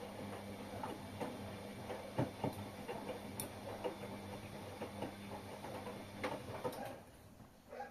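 Washing machine running: a steady motor hum under irregular clicks and knocks from the turning drum and load, stopping about seven seconds in.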